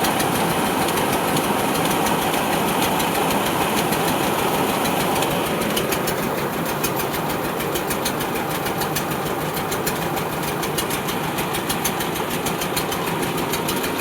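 Tractor diesel engine running steadily with a fast, even knocking clatter.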